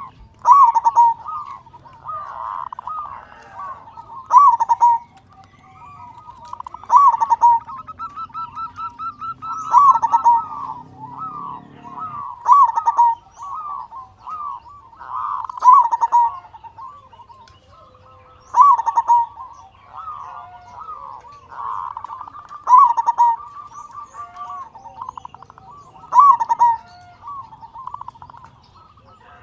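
Zebra dove (perkutut) cooing loudly and repeatedly. Its phrases of rapid staccato coos run into louder accented notes about every three seconds, which is the song used as a lure to get other perkutut singing.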